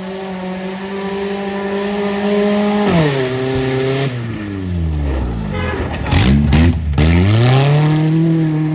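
1995 Mazda's swapped-in Ford engine held at high revs while the car is driven hard; about three seconds in the revs fall away, then climb back up near the end, with a burst of rushing noise between.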